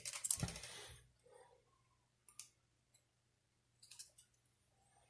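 Small clicks and taps from handling the clock spring parts and tools by hand, densest in the first second, then a few faint scattered ticks.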